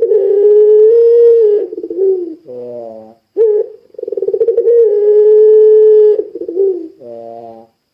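Puter pelung dove cooing: two long held coos about four seconds apart, each ending in a short, lower note.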